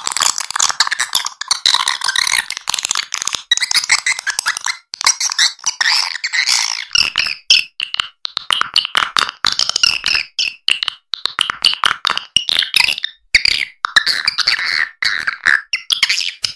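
Swiftlet lure call, the looped chirping and twittering of swiftlets played to draw them into a swiftlet house. It runs loud and high-pitched, a dense twitter at first, breaking into quicker separate chirps and clicks from about seven seconds in.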